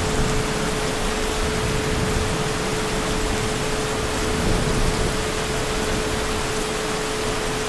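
Heavy rain falling steadily, an even hiss with a steady hum underneath.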